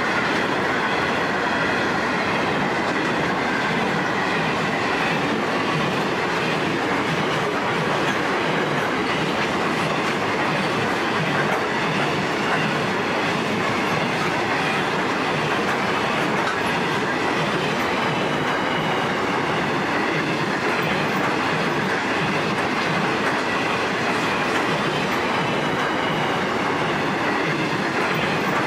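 Loaded grain hopper wagons of a freight train rolling past at steady speed: a continuous, even rumble of steel wheels on the rails.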